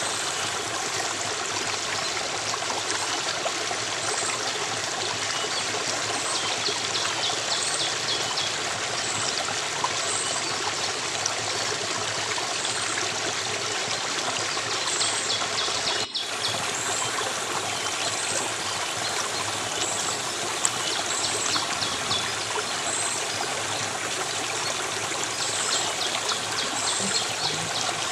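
A stream of water running steadily, with faint high-pitched chirps repeating through it about once a second. There is a brief dropout about sixteen seconds in.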